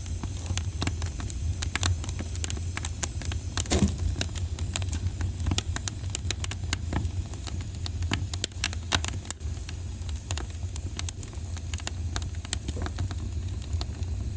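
Wood fire burning in a fireplace: irregular crackles and pops over a steady low rumble, with one louder pop about four seconds in.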